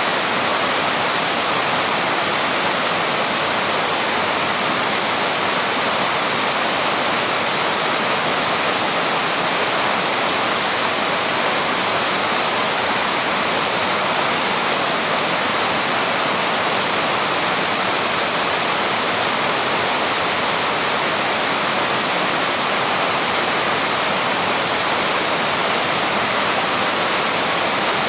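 A waterfall rushing in a steady, unbroken hiss of falling water.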